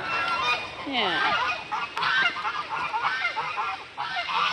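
Farmyard fowl calling: many short honking calls, repeated and overlapping.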